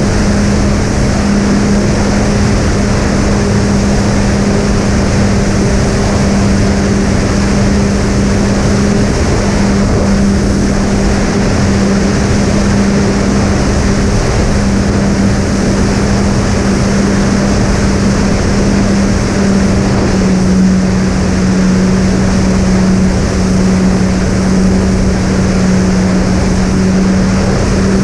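Twin brushless electric motors and propellers of a fixed-wing drone running steadily in cruise, with a rush of air. Two close, steady hums from the two motors run side by side.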